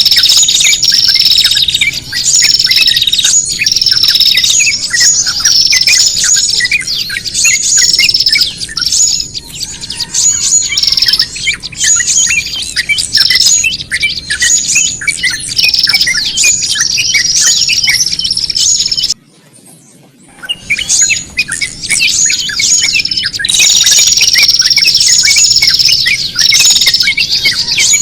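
Bird-lure recording of several small songbirds calling together, a dense racket of rapid high chirps and harsh squawks, the agitated, noisy calling meant to sound like a bird in distress and draw other small birds in. It breaks off for about a second about two-thirds of the way through, then resumes.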